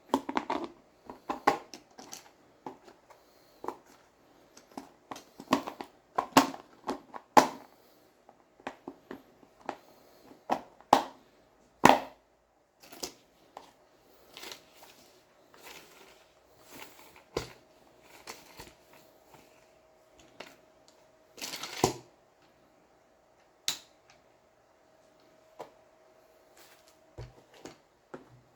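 Hard plastic parts and packaging being handled: an irregular run of sharp clicks, knocks and crinkles, busiest in the first half, with a faint steady hum in the second half.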